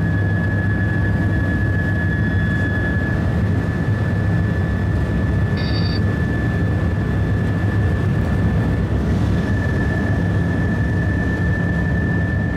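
High-speed train running at speed: a steady loud rumble with a constant high whine over it. A brief multi-tone beep sounds a little before halfway through.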